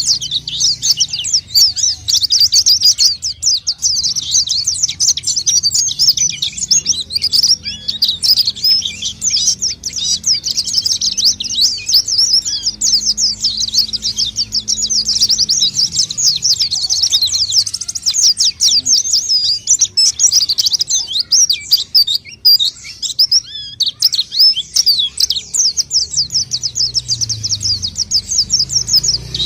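White-eye (pleci) singing a rapid, unbroken high twittering song, played as a lure recording to draw in wild white-eyes. The song thins briefly about three quarters of the way through.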